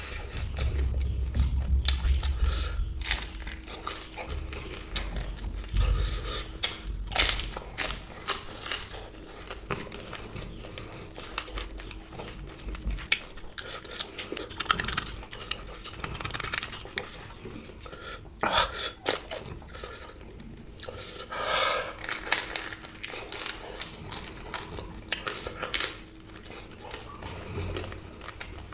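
Close-miked eating: food being crunched and chewed, with many irregular short crackles and clicks and the odd clink of cutlery or dishes.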